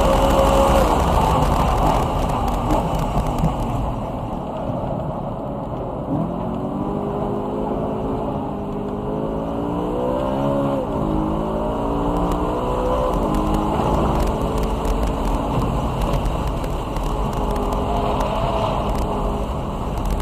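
BMW E92 M3's 4.0-litre V8 driven hard on a race track, over steady road and wind noise. Its pitch climbs under acceleration from about six seconds in, drops sharply at a shift or lift just past halfway, then climbs again.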